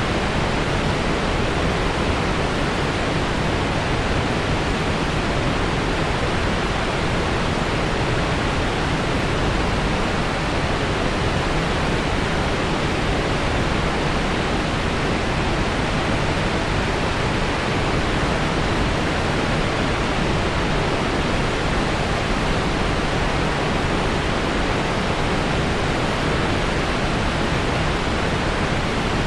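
Waterfall: a steady, unbroken rush of falling water, spread evenly from deep rumble to bright hiss.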